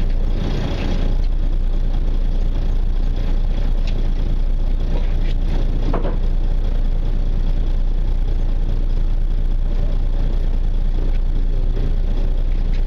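A fishing party boat's engine running steadily at low speed, a constant low drone, with a faint brief knock or two near the middle.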